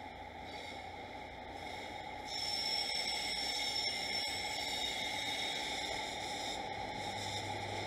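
A train approaching across the yard: steady running noise with faint high steady tones, growing louder about two seconds in, over a background hiss.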